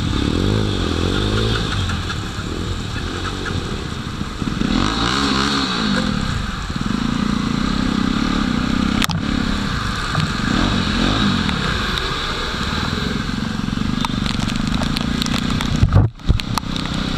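Jawa motorcycle engine running on the move, its pitch rising and falling several times, under a steady hiss of wind and road noise. The sound breaks off abruptly near the end with a sharp knock.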